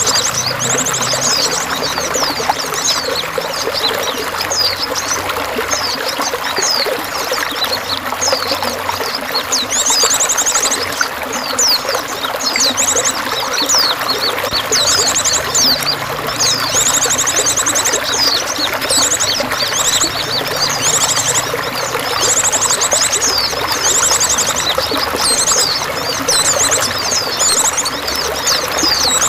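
Steady trickling, splashing water with songbirds chirping over it, broken again and again by fast, high trills.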